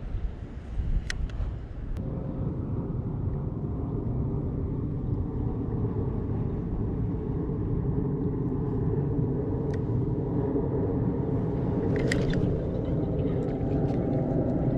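An engine running steadily, coming in about two seconds in and slowly growing louder, with a few sharp clicks over it.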